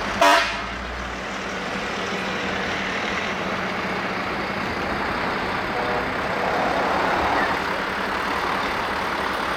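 Heavy trucks running past in a parade, a steady engine drone that swells a little about two-thirds of the way through. A brief loud burst sounds right at the start.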